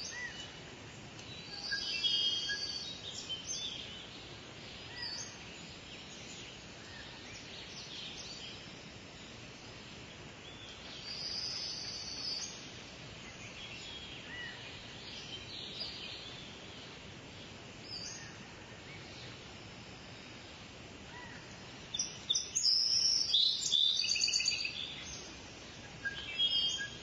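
Birds chirping and singing in short bursts over a steady background hiss, with a lively stretch of chirps near the end.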